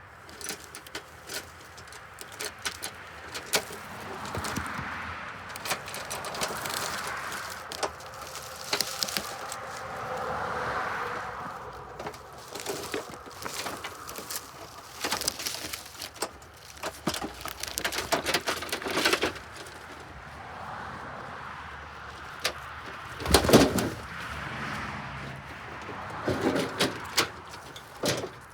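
Dry sticks and twigs cracking and knocking while firewood is gathered, with crunching steps on the forest floor; the loudest snap or knock comes about 23 seconds in. A bird calls softly in the background.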